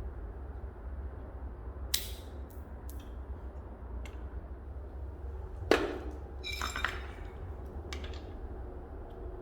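Metal parts knocking and clinking as they are handled. There are a few sharp knocks, the loudest about six seconds in, followed by a short run of ringing clinks, over a steady low hum.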